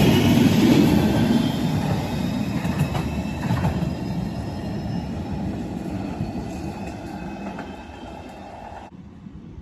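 Manchester Metrolink tram running past and away, its rumble fading steadily, with a faint high whine above it; the higher part of the sound drops away suddenly near the end.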